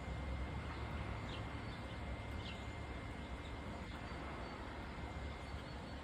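Steady outdoor background noise with a low rumble and a faint steady high tone, over which a small bird gives two faint short chirps, about a second in and again a second later.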